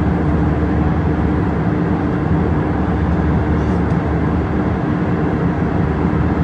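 Steady vehicle cabin drone: constant engine and airflow noise with an unchanging low hum.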